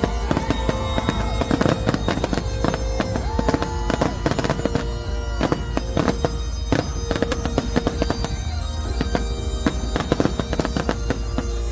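A fireworks display: rapid, dense bangs and crackling shell bursts going off continuously, with music playing alongside.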